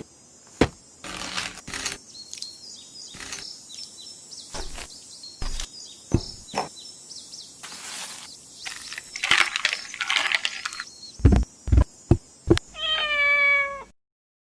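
A domestic cat meowing once near the end, a single held call, among scattered knocks, clicks and a few loud thumps.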